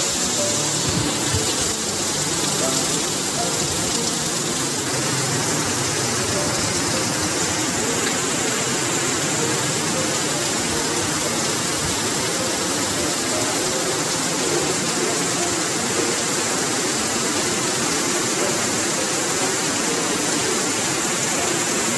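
Heavy rain falling in a steady, dense rush, with runoff streaming off the edge of a corrugated roof.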